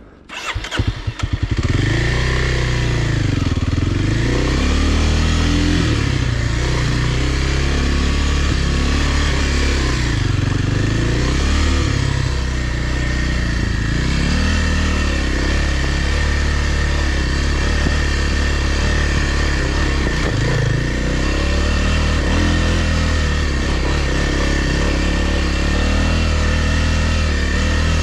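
Kawasaki dirt bike engine starting, catching about a second in, then revved up and down several times before settling into steady running.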